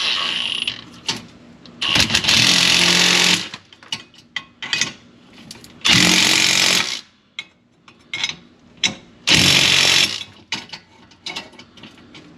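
Handheld power tool run in four short bursts of about a second each, with clicks and knocks of handling between them.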